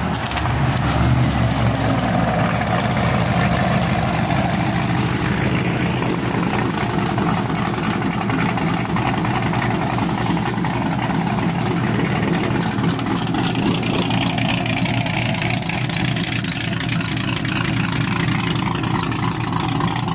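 Car engines idling steadily, a low rumble under constant hiss, with the lowest rumble heaviest in the first few seconds.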